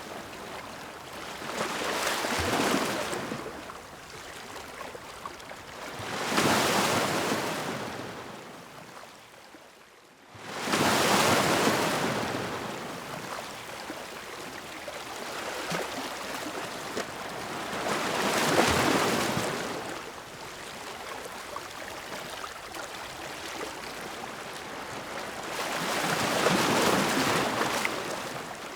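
Ocean surf: waves breaking and washing up the shore in slow surges, five swells in all, each rising and then fading. One surge rises sharply out of a brief quiet lull about a third of the way in.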